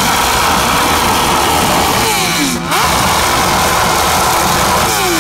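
Motorcycle engine revved hard through a loud exhaust, held high with the revs dropping and climbing again twice.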